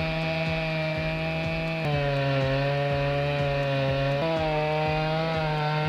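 Chainsaw running at high revs; its pitch drops about two seconds in and comes back up a little after four seconds.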